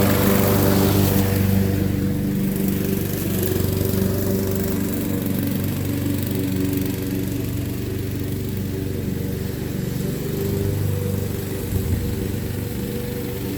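Honda HRX217 self-propelled walk-behind mower running steadily under load while cutting and bagging thick, wet grass. There is a louder rush of grass being cut during the first couple of seconds, which then eases.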